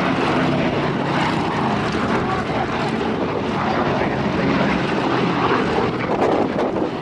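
Boeing B-17 Flying Fortress in flight, its four radial engines running steadily with a propeller drone.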